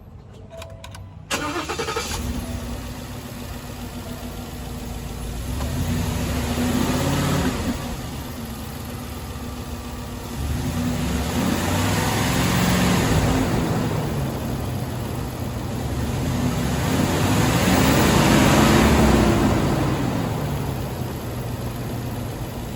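2020 Ford F250 pickup engine cranking and catching about a second in, then running at idle. It is revved three times, each rev climbing and falling back to idle.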